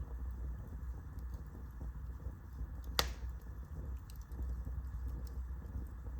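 Wood fire burning in a fireplace: a steady low rush of flames with scattered small crackles and one sharp pop about three seconds in.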